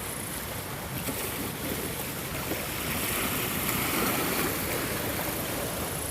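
Ocean waves washing in, a steady rushing hiss that swells to a peak in the middle and eases off again.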